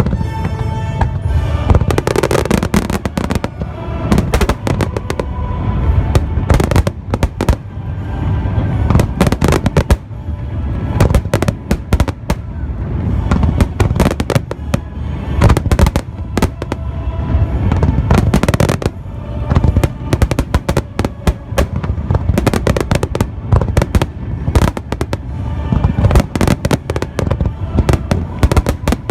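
Fireworks bursting in rapid, continuous succession, with many sharp bangs and crackles, over music.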